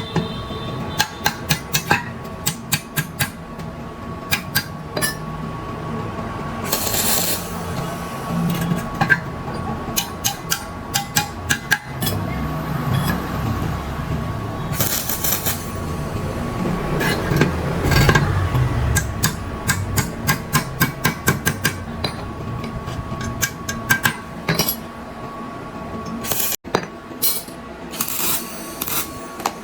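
Hand work on metal machine parts: many sharp clinks and knocks, with a few short bursts of hiss and a steady hum underneath.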